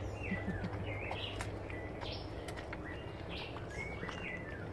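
Birds giving short, pitch-sliding chirps every second or so over a steady background hiss.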